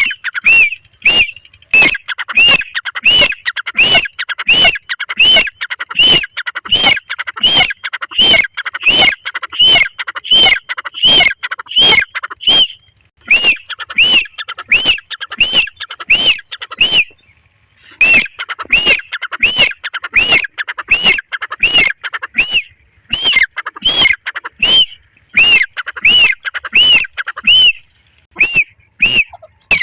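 Grey francolin calling: loud, shrill notes repeated about twice a second in long runs, broken by a few short pauses.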